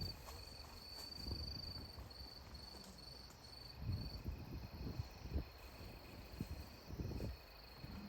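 Faint, high insect trill in short repeated pulses that fade out about halfway through, with a few low rumbles at intervals.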